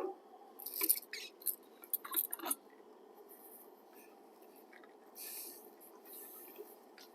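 Quiet handling noises: a few short clicks and taps, then two brief soft hissing rustles.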